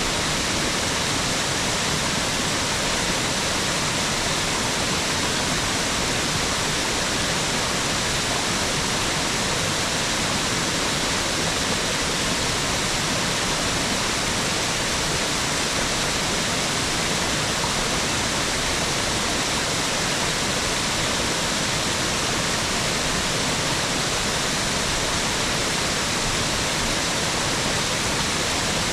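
Mountain waterfall: a steady, even rush of falling water with no change over time.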